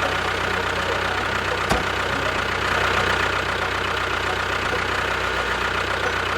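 A small engine runs steadily at idle, with one short click about two seconds in.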